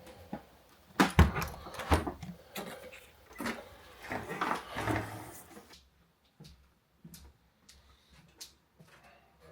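A run of knocks and clatters from things being handled indoors, like doors, drawers or cupboards, for about five seconds, loudest near the start, then a few faint scattered clicks.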